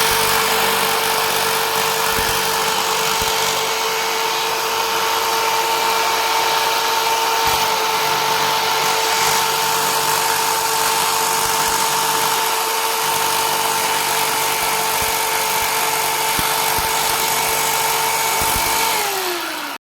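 Electric power tool motor running steadily at one speed, then winding down as it is switched off near the end.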